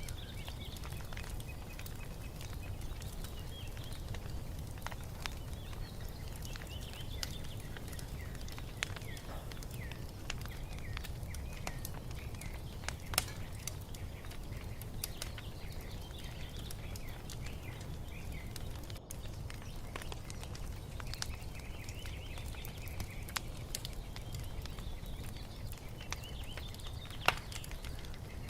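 Wood fire crackling with scattered sharp pops, two louder ones about halfway and near the end, over a low steady rumble, while small birds chirp and twitter throughout.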